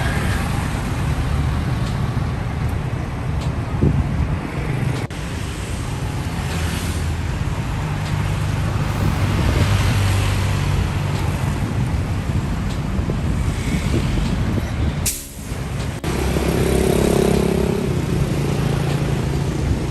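Large coach bus engine running, with road traffic noise around it. The sound dips and breaks off briefly about 15 seconds in, then carries on.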